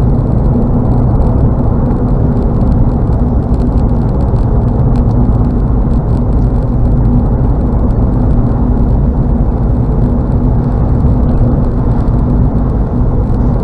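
Steady road noise of a car cruising at highway speed, heard from inside the cabin: a constant low rumble of tyres and engine.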